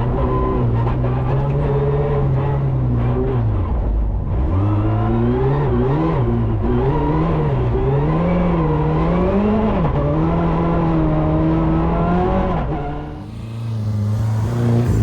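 Rally car engine revving hard, its pitch climbing and dropping again and again as the throttle is worked. Near the end the sound dips briefly and a lower, steadier engine note takes over.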